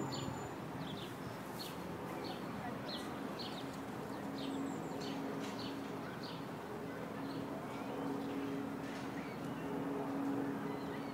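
A small songbird chirping over and over, short high notes about twice a second, over a steady low hum and outdoor background noise.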